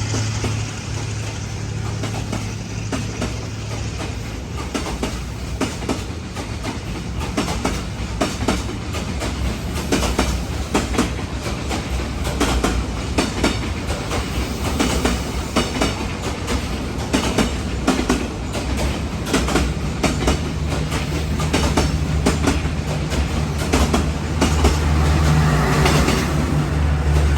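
Railway cars rolling past, their wheels clicking and clacking over rail joints in an uneven stream over a low rumble. A low engine drone builds in the last several seconds.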